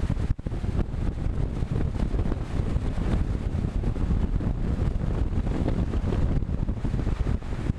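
Wind buffeting the microphone of a camera riding along on a moving bicycle, a loud, gusty rumble that dips briefly just after the start.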